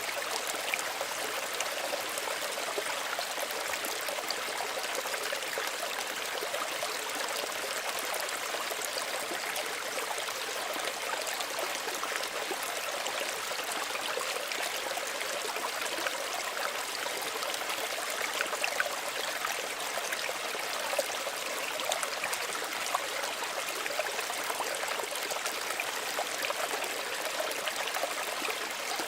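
Small stream of running water babbling and trickling steadily, an even wash of splashing with small gurgles.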